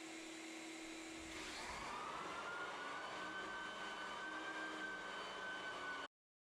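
Floor sanding machine's electric motor spinning up with a rising whine about a second and a half in, then running steadily with a hiss. It cuts off suddenly near the end.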